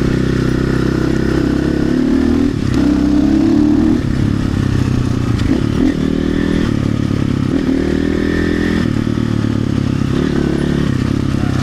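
RXB250XL dirt bike engine running under load through mud, the revs climbing and dropping twice as the throttle is worked.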